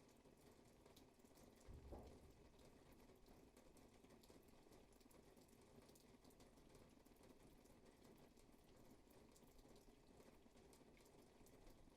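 Faint, steady rainfall, with scattered drops ticking throughout. A single low thump about two seconds in.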